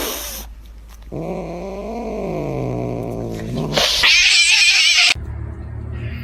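A pet animal's long drawn-out yowl that rises and falls in pitch, followed about four seconds in by a louder, harsh, wavering high-pitched screech lasting about a second.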